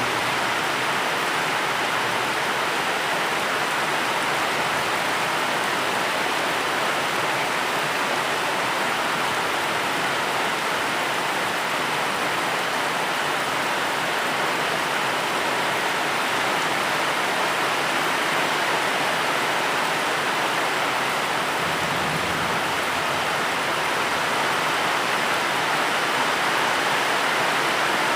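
Steady, even rain falling, a continuous hiss of water without distinct drops or breaks.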